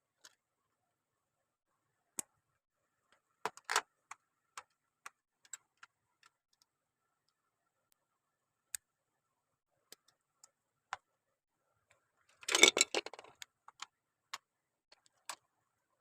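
Plastic Lego pieces handled and clicked together in scattered sharp clicks, some in quick pairs, with a short, louder flurry of clatter about three quarters of the way through.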